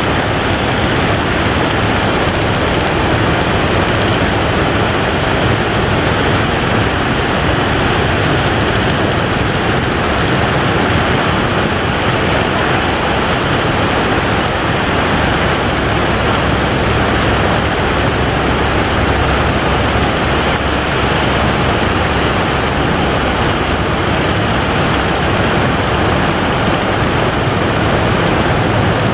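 Loud, steady rush of breaking surf and big waves.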